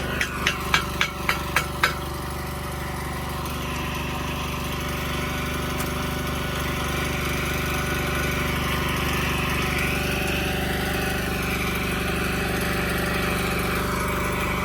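Gas-engine Miller welder-generator running steadily. About eight sharp metallic taps come in the first two seconds, then a steady hiss builds and holds.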